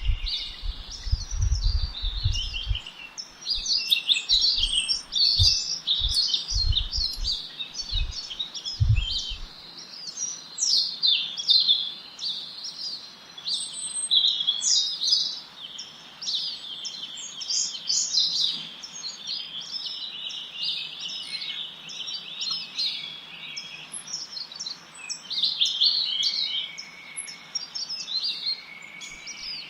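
Many small birds chirping and twittering at once in a dense, continuous chorus of short, high calls and trills. A series of low thuds comes through during roughly the first ten seconds.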